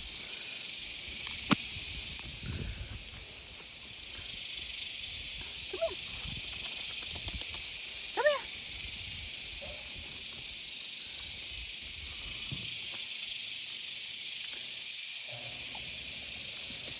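Loud, steady high-pitched drone of a chorus of cicadas (locusts). A sharp click comes about a second and a half in, and two short high calls come near six and eight seconds in.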